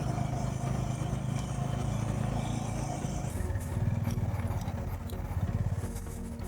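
Motorcycle engine running at low speed while being ridden over a rough off-road track, its pitch dipping and rising again about halfway through.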